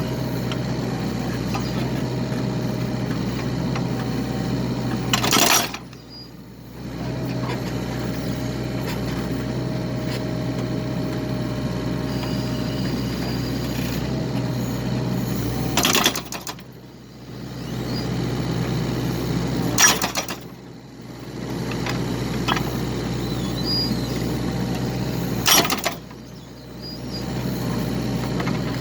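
Excavator's diesel engine running steadily while it splits firewood, with four loud cracks of logs splitting, each followed by a brief lull in the engine sound.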